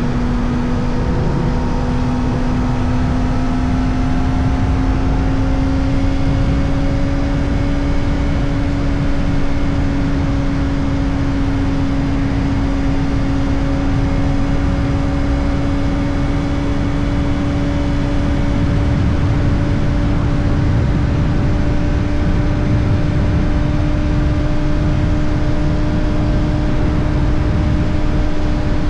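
Kawasaki Ninja ZX-4RR's 399 cc inline-four running through an Arrow Indy Race Evo titanium exhaust with the dB killer fitted, holding a steady cruise, its pitch creeping slowly upward. A low rumble of wind and road noise runs underneath.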